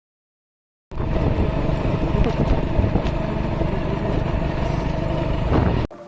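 A motor vehicle running on the road, with a dense low rumble of engine and road noise. It starts abruptly about a second in and cuts off sharply near the end.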